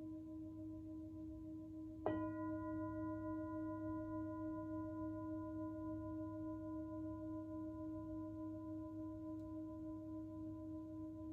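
Himalayan singing bowl ringing with a slow, wavering pulse, struck again about two seconds in; the strike brightens the tone with higher overtones that fade away while the deep ring carries on.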